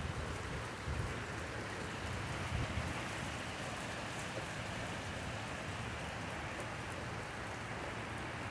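Steady rain falling, with scattered drop ticks. A low rumble under it fades out about three seconds in.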